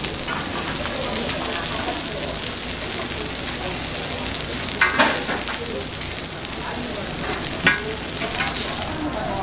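Oil sizzling steadily on a flat-top griddle as egg-battered donggeurangttaeng (Korean meat patties) pan-fry. A couple of sharp metal spatula clacks come about halfway through and again a few seconds later.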